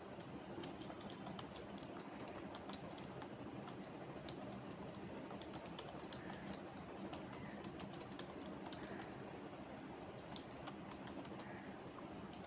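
Computer keyboard typing: irregular runs of key clicks, with short pauses, over a steady low background hum.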